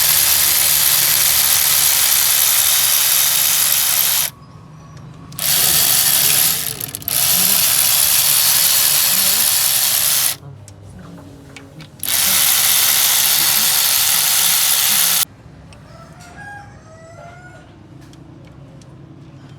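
Loud steady hiss of a compressed-air line or air tool in four long bursts, each lasting about one and a half to four seconds.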